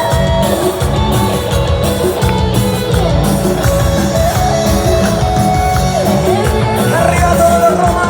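Live band music, an instrumental passage with a lead guitar line over a steady beat.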